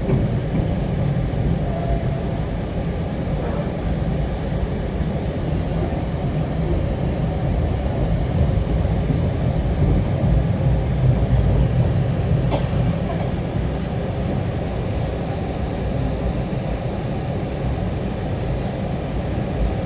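Steady low rumble of a vehicle in motion, with a faint click about twelve seconds in.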